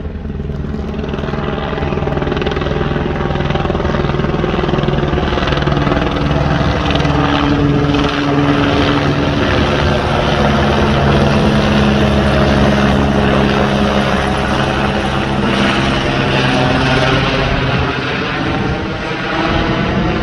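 Helicopter flying low overhead: a loud, steady rotor and engine sound that swells to its loudest about halfway through, then eases a little near the end.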